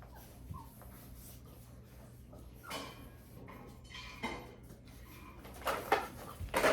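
A few separate knocks and clatters of dishes or feeding bowls being handled, with puppies starting to whimper near the end.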